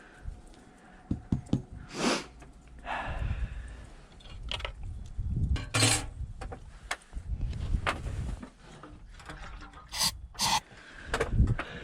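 Scattered rubbing and scraping handling noises with a few short, sharp scrapes at intervals, around two seconds in, near six seconds and twice close together near ten seconds. No engine catches or runs.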